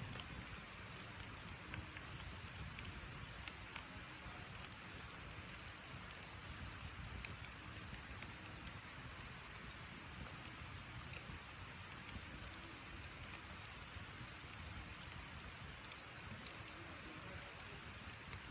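Wood fire burning a thin wooden somen-noodle box, crackling with many small sharp pops over a steady hiss, one pop louder than the rest about halfway through.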